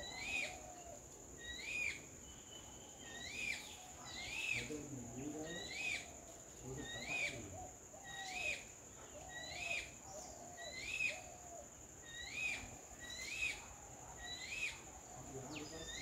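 Birdsong: a bird repeats a short, rising-then-falling whistled note about once every 1.2 seconds, with lower hoot-like notes in between, over a steady high-pitched whine.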